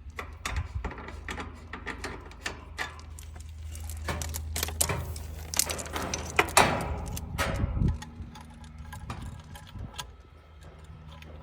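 Irregular clicks, knocks and metallic rattling of tools and fittings being handled during HVAC refrigerant work, over a low steady hum, with a louder clatter about two-thirds of the way in.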